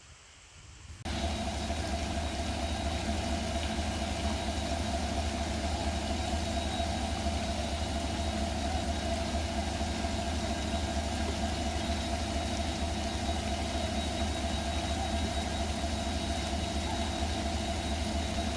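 A steady engine hum that starts abruptly about a second in and then runs unchanged, with a strong low drone and a few fixed tones above it.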